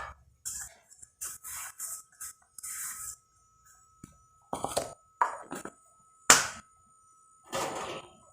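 Household items being handled and set down: short rustles, clicks and knocks, with a sharp knock about six seconds in. A faint steady high tone runs behind them from about a second in.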